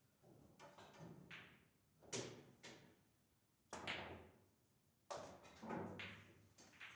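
Faint, sharp clacks and knocks of pool balls and cue on a pocket-billiards table, several in a row. The loudest come about two seconds in, just before four seconds and just after five seconds.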